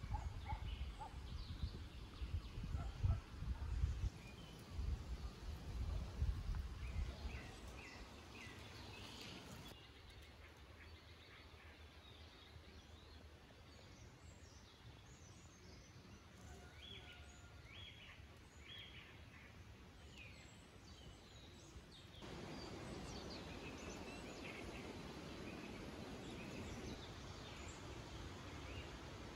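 Wild birds chirping in short scattered calls in outdoor ambience. Low rumbles and thumps are heaviest in the first several seconds. The background hiss changes abruptly twice, at about 10 and 22 seconds in.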